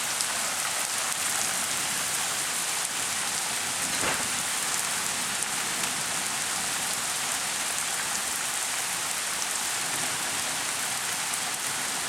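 Heavy rain falling steadily in a summer storm, an even hiss of drops hitting the ground and surfaces.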